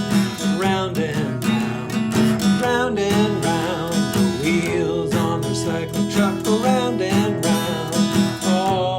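A children's song with strummed acoustic guitar, and a voice singing the melody over it.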